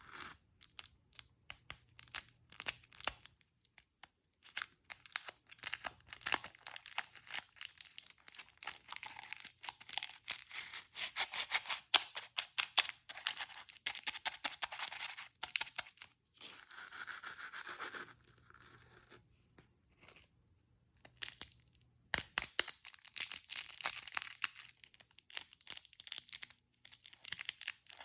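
Plastic candy and chocolate wrappers crinkling and tearing as sweets are unwrapped, in dense runs of crackles with a few short pauses.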